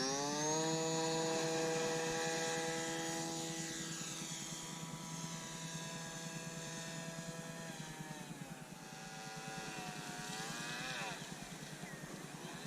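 Motor and propeller of a radio-controlled model seaplane in flight, a steady whine. The pitch rises sharply as the throttle opens at the start, shifts again twice later on, and the sound slowly grows fainter.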